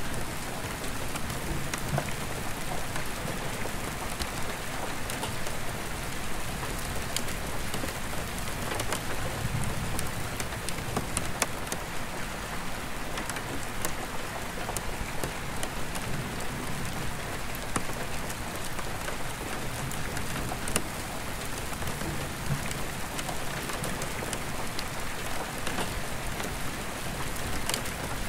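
Steady rain falling on an attic skylight's glass, with many single drops tapping sharply against it. Faint low rumbles of distant thunder swell now and then.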